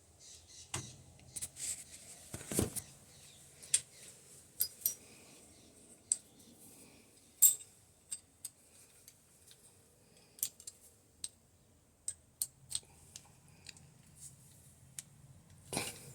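Irregular sharp metallic clicks and clinks of tools and small metal parts being handled, with a heavier knock about two and a half seconds in.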